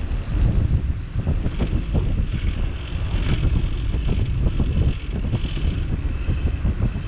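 Wind buffeting the microphone of a camera clamped to a moving bicycle: a steady low rumble broken by many small knocks and jolts as the bike rolls along the path.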